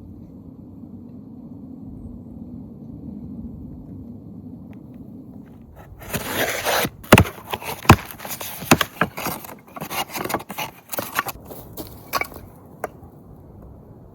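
A low steady rumble, then about six seconds of scraping and rustling with many sharp knocks and clicks, as of things being handled and set down by hand.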